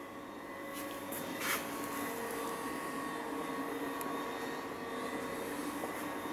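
BMW 316 E21's 1.6-litre four-cylinder engine idling steadily, heard more loudly from about a second in. About a second and a half in there is a short rustling noise.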